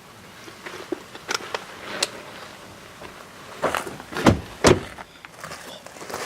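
A few sharp clicks, then a cluster of heavy thumps about four seconds in, the loudest two close together.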